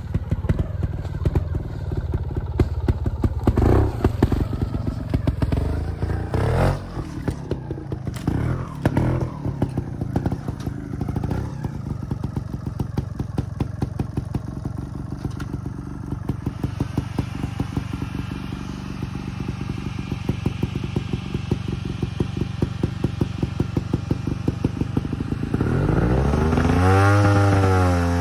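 Trials motorcycle engine chugging at low revs, with scattered knocks and clatter. Near the end it revs up and drops back sharply, twice.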